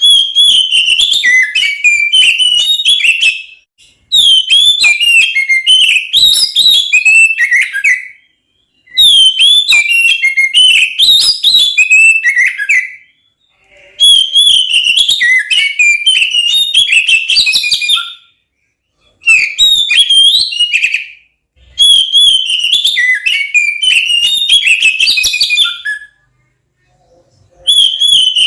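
Oriental magpie-robin (kacer) in full, aggressive fighting song: loud, rapid, varied whistled phrases that swoop up and down. The song comes in about six bursts of two to four seconds each, separated by brief pauses.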